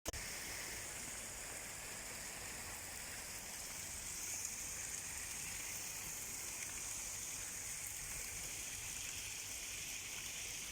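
Sea surf washing in, a steady hiss of water with no distinct breaks.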